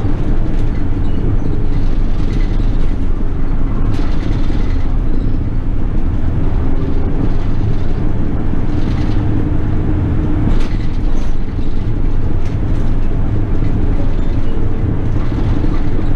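City bus under way: its engine and drivetrain give a steady low rumble, with an engine note that shifts in pitch as it drives, and a few light rattles.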